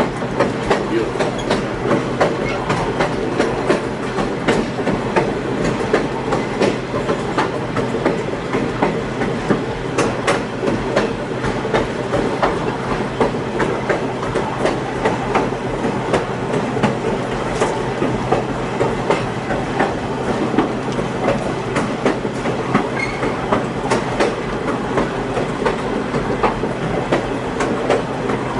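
A passenger train rolling along the track, heard from on board: a steady rumble with frequent irregular clicks and knocks from the wheels and the cars.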